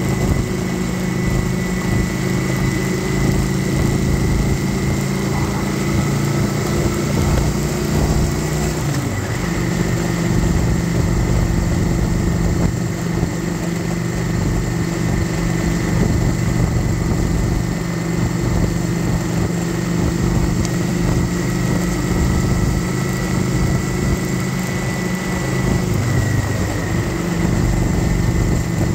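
Kawasaki Vulcan 900 Classic SE's V-twin engine running at cruising speed, heard from on board over a rush of wind and road noise. The engine note drops and then settles back about nine seconds in, and again near the end.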